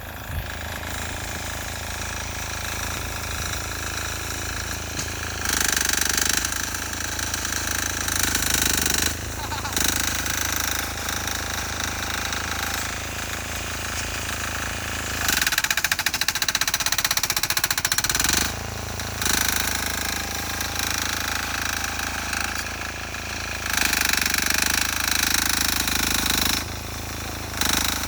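Sears Suburban garden tractor's 6 hp single-cylinder air-cooled diesel running with a hard, rapid knock while pushing heavy snow under load, getting louder several times.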